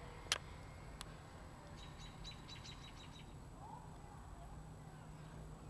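A bird giving a quick run of about eight short, high chirps in the middle, over a faint low rumble, with a sharp click just after the start.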